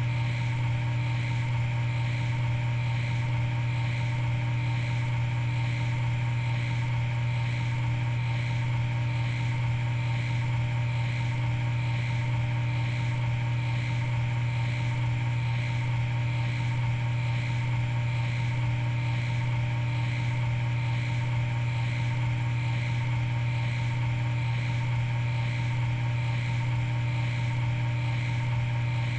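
Steady, unchanging hum of running equipment: a deep drone with a few fainter, higher steady tones above it.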